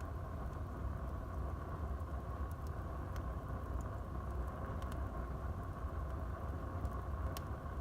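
Wood fire burning in a fireplace: a steady low rumble of the flames with a few sharp crackles and pops from the burning wood, the loudest near the end.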